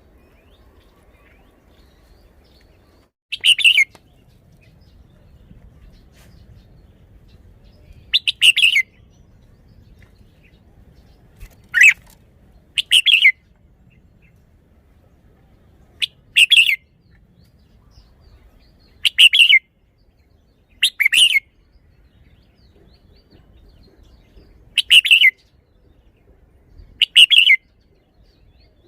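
Red-whiskered bulbul singing in short, loud whistled phrases of about half a second each, about nine of them, spaced a few seconds apart.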